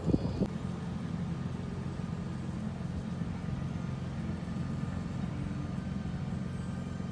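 A vehicle engine idling: a steady low hum with no change in pitch. A short gust of wind noise on the microphone sits at the very start.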